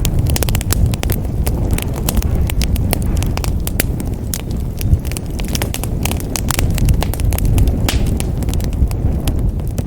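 Wood fire crackling in a fireplace: dense, irregular sharp snaps and pops over a steady low rumble of the burning fire.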